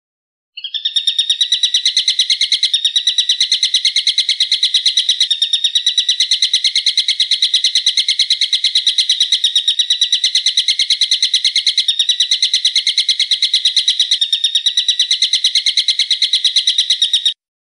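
A songbird calling in a fast, unbroken trill of sharp, high notes, sustained for about sixteen seconds.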